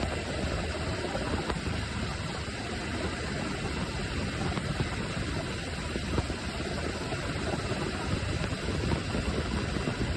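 Steady engine and rotor noise of a UH-60 Black Hawk helicopter: an even rumble with hiss over it, unchanging throughout.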